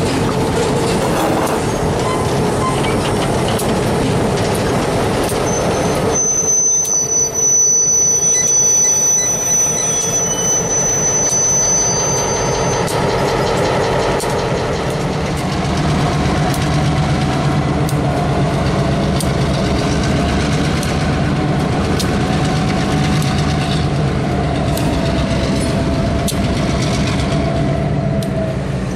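Freight train of loaded lumber flatcars rolling past close by, with steady wheel-on-rail noise and a high wheel squeal from about six seconds in that holds for about seven seconds. Later the train's EMD diesel locomotives, a GP38-2 and an SW1500, run past with a low engine hum.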